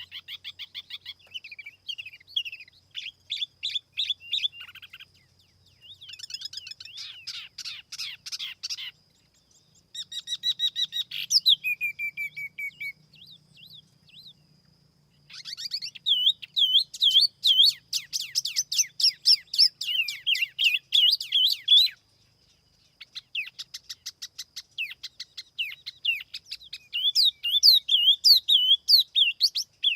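Tiểu mi songbird singing, the lure song used to call in birds of its kind: bursts of rapid, high chirping phrases several seconds long, broken by short pauses.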